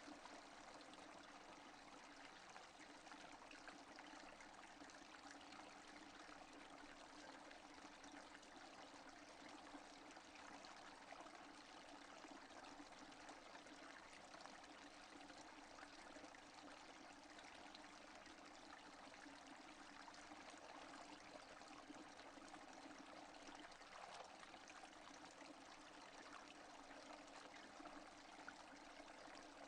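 Faint, steady rain falling, an even hiss of many small drops with no thunder.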